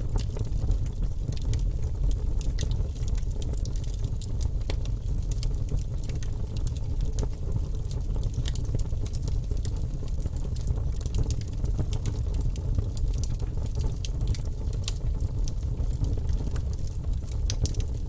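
Fire burning in a fireplace: a steady low rumble of flames with frequent small crackles and pops scattered throughout.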